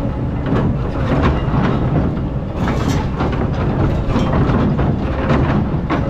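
Excavator's diesel engine running under load, with irregular scraping and knocks as the bucket digs into hard-packed sand.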